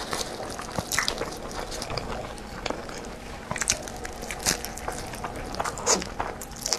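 Close-miked eating of a sticky rice meat dumpling (zongzi): chewing and mouth sounds, with scattered clicks and smacks.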